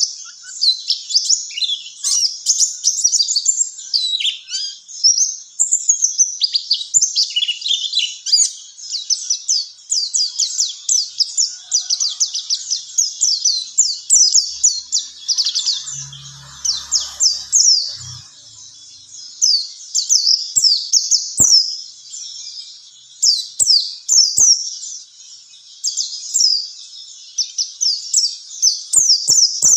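White-eye (pleci) singing a long, rapid run of high chirps and twittering trills, almost without pause.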